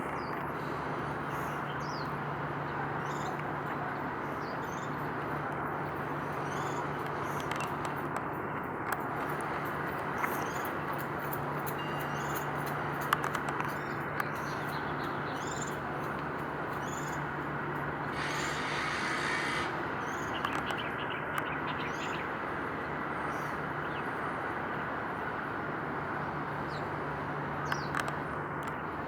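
Small birds chirping in short, repeated calls over a steady distant rumble with a faint low hum, and a brief hiss about two-thirds of the way through.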